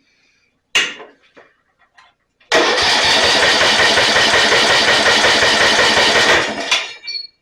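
A sharp knock about a second in. Then the electric starter cranks a Snapper riding mower's 12.5 hp Briggs & Stratton engine for about four seconds without it catching. The owner takes the failure to fire for a lack of spark.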